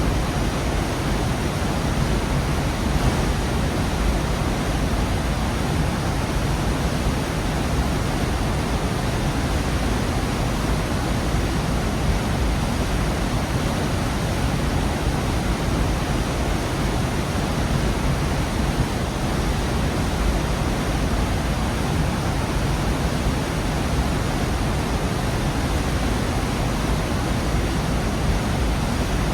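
Gorge waterfall: a steady, unbroken rush of falling water, heaviest in the low end.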